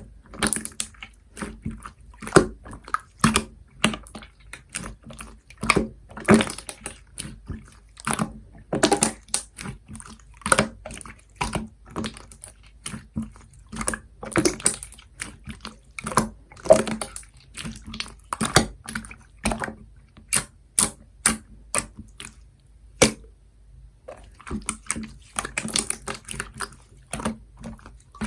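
Slime being worked by hand: wet squishing with dense clusters of sharp little pops and clicks in an uneven rhythm.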